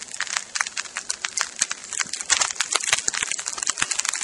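Sleet falling: ice pellets ticking against surfaces in a rapid, irregular patter of sharp clicks.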